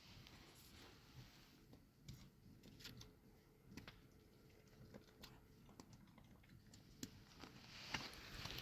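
Near silence with scattered faint clicks and taps, and a soft hiss rising near the end.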